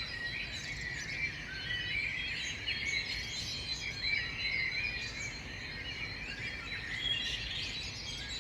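Many birds calling at once: a dense, overlapping chorus of short high chirps and trills, over a faint low background hiss.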